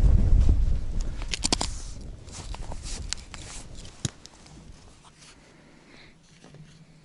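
Wind buffeting the microphone, dying away over the first couple of seconds, with a run of small sharp clicks and crackles of handling, one last click about four seconds in.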